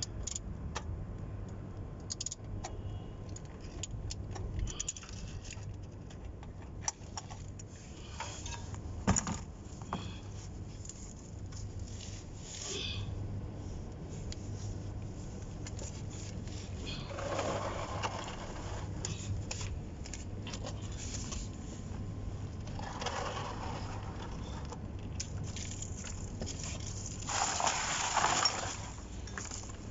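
Scattered metal clinks and scrapes of hand tools during oil-change work, over a steady low hum. Three short rushing noises come about halfway through, a little later, and loudest near the end.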